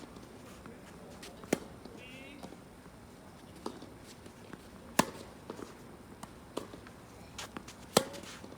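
Tennis ball struck by racquets during a rally: three sharp pops about three seconds apart, with lighter knocks of the ball bouncing in between.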